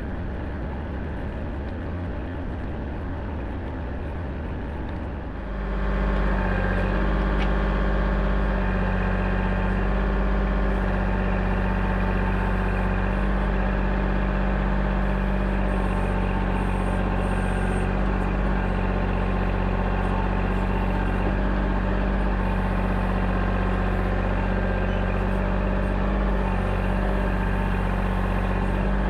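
Engine of heavy digging machinery running steadily, then revved up to a louder, higher speed about five seconds in and held there.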